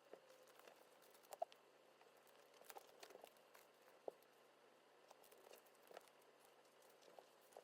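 Near silence broken by faint, scattered small clicks, taps and crinkles of hands handling stickers and a binder while decorating it, a few sharper ticks among them.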